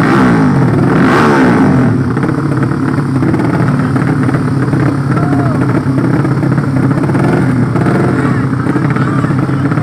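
Drag-racing motorcycle engines running loudly, revved up and down in the first two seconds, then running at a steadier speed.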